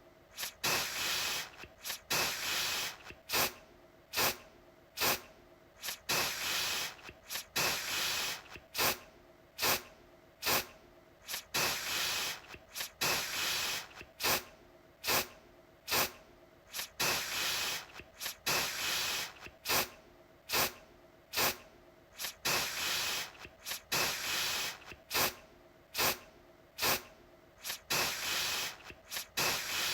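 Aerosol deodorant can spraying in short hissing bursts, over and over about once a second, with sharp clicks between the bursts that are louder than the spray itself.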